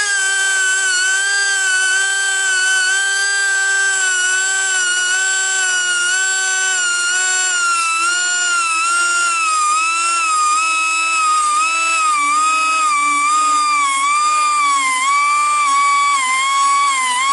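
High-speed rotary tool whining steadily as it grinds the teeth of a sawmill band blade. The pitch sags briefly again and again as the stone is pressed into each tooth, and drifts slowly lower through the stretch.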